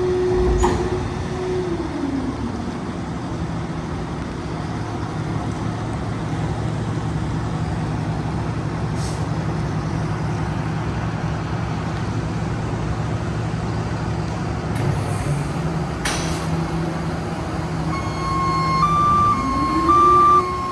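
A Freightliner M2 106 garbage truck's diesel engine is running. It drops from a raised speed to idle about two seconds in, idles steadily, then speeds up again near the end. There are a few sharp clicks along the way.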